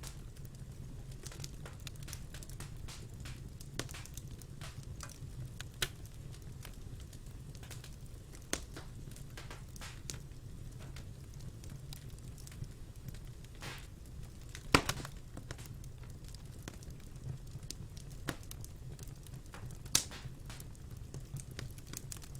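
Wood fire burning in a fireplace: a steady low rumble of flame with scattered crackles and pops, two sharper pops standing out about two-thirds through and near the end.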